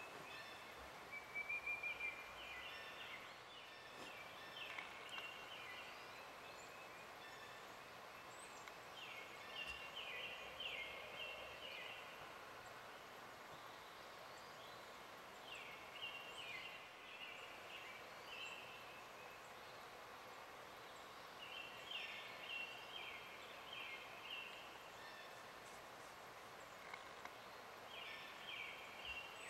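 Quiet woodland ambience with a bird calling in short runs of rapid high notes, repeated about every six seconds; the loudest run comes about a second in.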